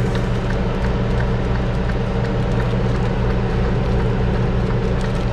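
Semi-truck diesel engine idling steadily, heard from inside the cab as an even low hum.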